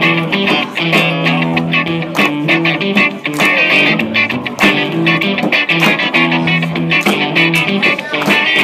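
Instrumental guitar music, chords strummed in a steady rhythm with no singing.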